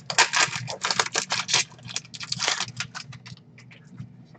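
Trading cards being slid and flicked one past another in the hand, a quick run of clicks and swishes that thins out toward the end.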